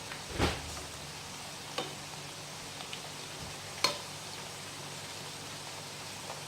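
Oil sizzling steadily as breadfruit pieces fry in a pan, with three sharp knocks of a utensil against the pan.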